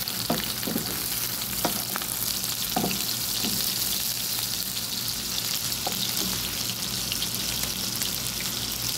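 Goat meat, onions and bell peppers sizzling in oil in a pan, stirred with a wooden spatula that scrapes against the pan a few times.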